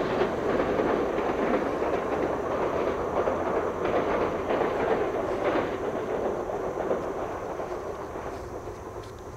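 Electric train running past on the track, wheels clicking over the rail joints, the sound fading steadily as it moves away.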